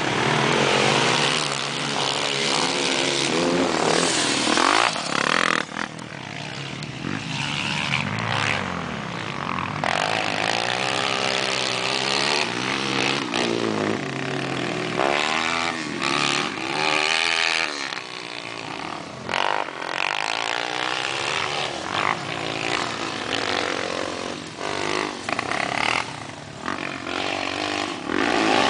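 Motocross motorcycle engines revving hard and easing off over and over, their pitch climbing and dropping, with more than one bike heard at times.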